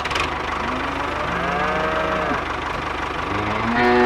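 Cattle mooing: long calls that rise and fall in pitch, overlapping, with one about a second and a half in and a louder one near the end, over a steady low mechanical chugging.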